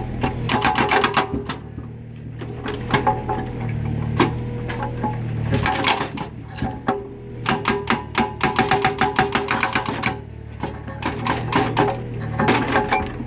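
Mini excavator's hydraulic breaker hammering concrete in rapid bursts of blows, the longest lasting about three seconds, with short pauses between them. The diesel engine runs steadily underneath.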